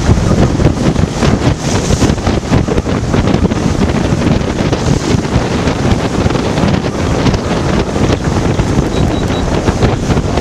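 Strong wind of about 23 to 25 knots buffeting the microphone on a sailboat under way, with water rushing past the hull as the boat rolls in the swell.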